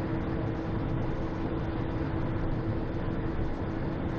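Steady cockpit noise of a Cessna Citation XL climbing after takeoff: its turbofan engines and the rush of air, with a steady hum.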